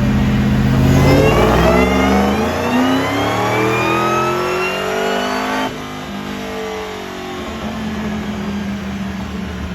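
A car engine being run hard on a chassis dyno: its pitch climbs steadily for about four seconds as it revs up, then cuts off sharply about six seconds in as the throttle is lifted and winds down to a lower drone.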